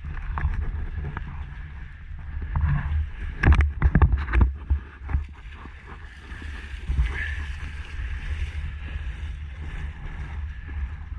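Low rumble of wind buffeting the microphone, with a few sharp knocks about three and a half to four and a half seconds in.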